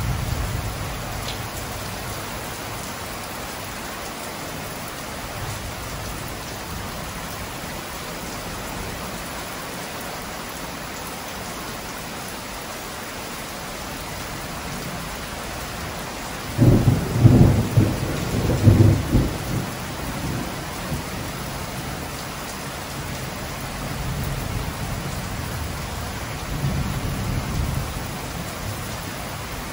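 Heavy, steady rain pouring down. About halfway through, thunder rumbles loudly for about three seconds, with fainter rumbles of thunder near the end.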